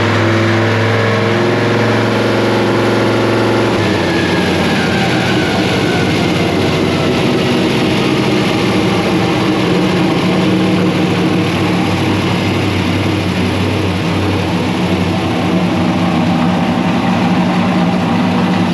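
The V8 engine of a 1961 Ford gasser truck running hard on chassis dyno rollers, loud and steady, with a change in its note about four seconds in and a slow rise in pitch after that.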